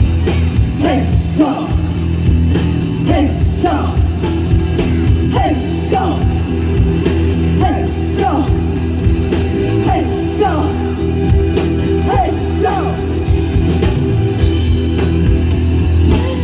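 A live band playing, with a short falling melodic figure repeating about every two-thirds of a second over a steady bass and sustained chords.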